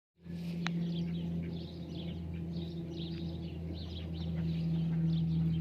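Birds chirping in many short, high calls over a steady low hum, with a single sharp click just under a second in.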